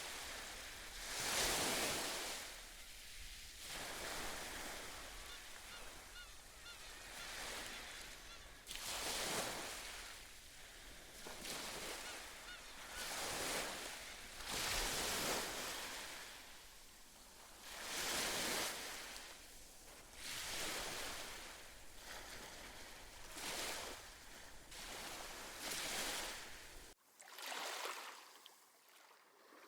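Small sea waves washing in one after another, every second or two, with seabirds calling among them. About 27 s in the sound cuts off abruptly to a thinner, quieter wash with no low rumble.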